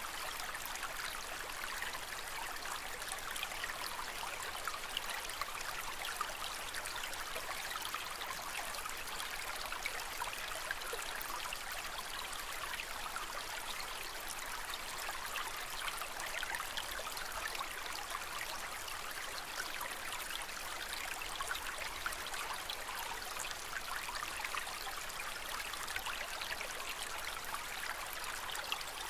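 Aquarium water trickling and splashing steadily, with a fine fizz of tiny pops over the top.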